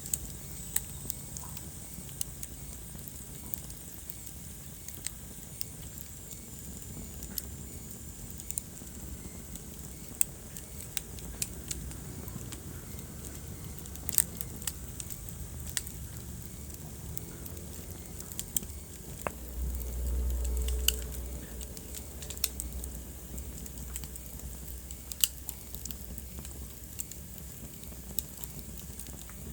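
Wood fire crackling: scattered sharp pops and snaps over a low, steady rumble of burning. About two-thirds of the way through, the low rumble swells for a second or so, and a faint high whistle runs through the first several seconds.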